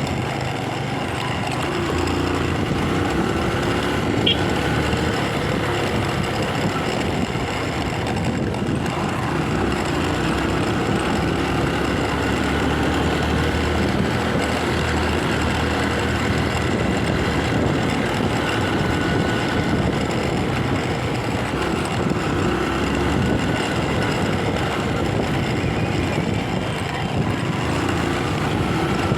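Motorcycle riding over a cobblestone-type paved-block street: the engine runs steadily under a constant rattle and jolting from the paving, with road noise throughout.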